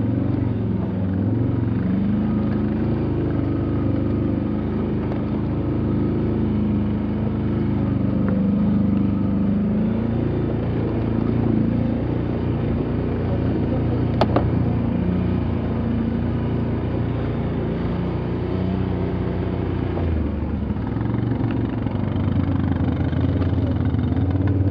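Off-road vehicle engine running under way, its pitch rising and falling with the throttle over rough ground. There is a single sharp click about 14 seconds in.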